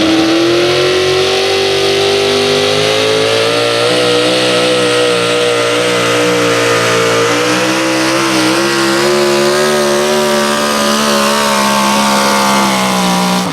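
Competition pulling engine at full throttle during a sled pull. Its pitch climbs over the first couple of seconds, then holds high and steady, with a slight wobble about eight seconds in.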